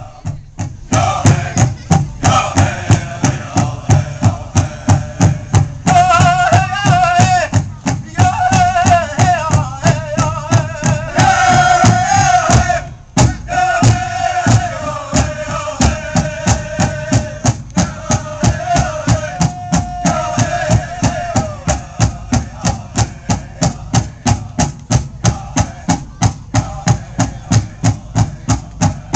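Powwow drum beaten in a steady, even beat of about two and a half strokes a second, with high-pitched chanted singing over it that stops about two-thirds of the way through, leaving the drum alone.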